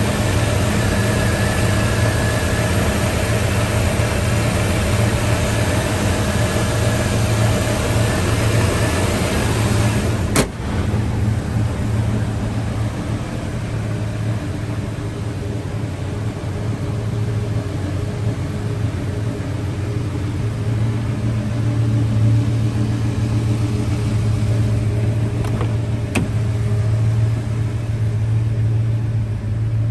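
Engine of a 1994 GMC Sierra 1500 pickup running steadily with an even low hum, and a single sharp click about ten seconds in.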